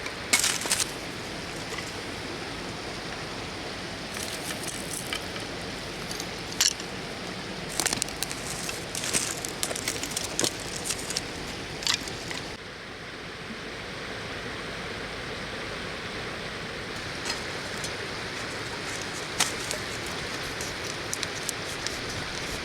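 River water flowing steadily, with scattered clicks and rustles in the first half; the flow sound shifts slightly, a little softer in the highs, about halfway through.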